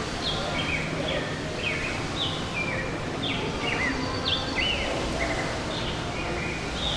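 Birds chirping: a busy string of short, quick falling whistles, a few each second, over a steady background hum.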